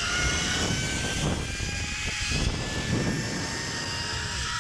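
Zipline trolley's pulley wheels running along the steel cable, a whine slowly rising in pitch, over wind rumbling on the microphone.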